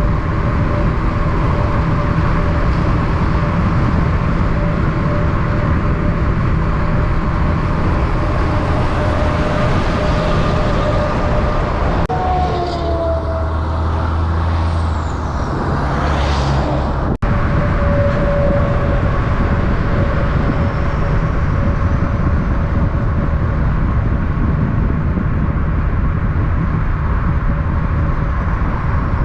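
Steady heavy road-vehicle noise, engine and road sound running without a break. A short different passage in the middle carries a falling high whistle and ends abruptly.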